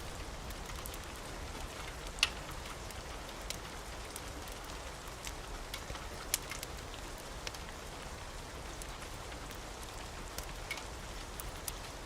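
Wood fire in a fireplace crackling: scattered sharp pops and snaps, a handful standing out, over a steady hiss.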